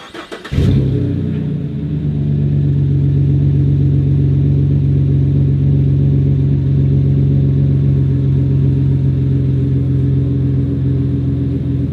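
Starter cranks a 2017 Chevy Silverado's 4.3-litre V6 briefly, and it catches under a second in with a quick rise in revs. It then settles into a steady idle through an aftermarket MBRP dual performance exhaust, louder and deeper than stock.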